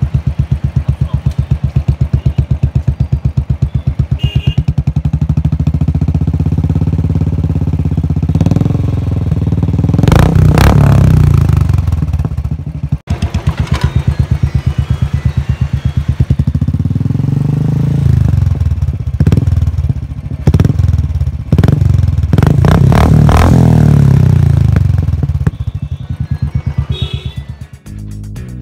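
Royal Enfield Classic single-cylinder engine idling through an aftermarket silencer with an even, rapid thump, revved up and let fall back three times.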